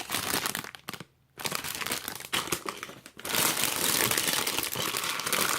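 Plastic Lego parts bag crinkling as it is handled, with a brief pause about a second in and louder, continuous crinkling over the last half.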